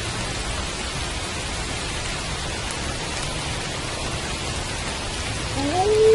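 Steady rain falling. Near the end a wolf's howl begins, sliding up in pitch and then holding.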